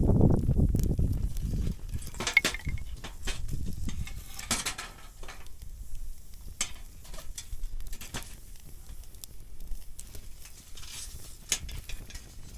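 Metal utensils clinking and scraping against cookware in scattered taps and short scrapes, with a low rumble of wind on the microphone in the first second or so.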